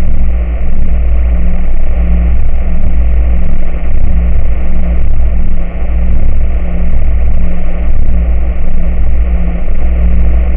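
A loud, steady, low rumbling noise with a regular pulse a little more than once a second.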